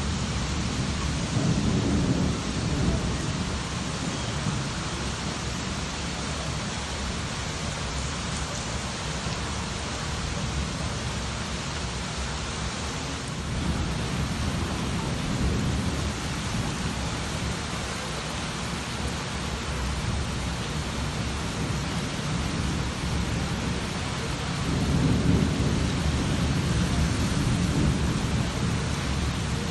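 Steady heavy rain hissing, with low rumbles of thunder swelling up three times: near the start, midway, and again near the end.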